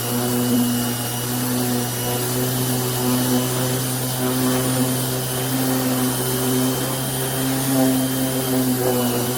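Corded electric random orbital sander running steadily: a constant low hum with a pulsing tone above it.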